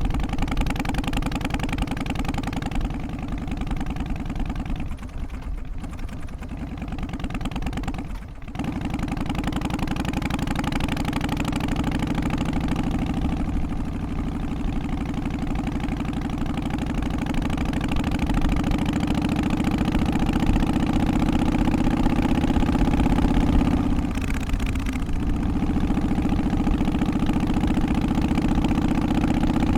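Harley-Davidson Twin Cam 88 V-twin running in an FXST Softail, steady and loud with its pitch shifting gently. It briefly drops away a few times, about five, eight and twenty-five seconds in.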